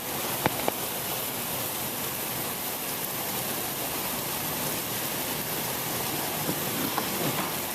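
Steady hiss of heavy hurricane rain, with two short knocks about half a second in and a few faint ones near the end.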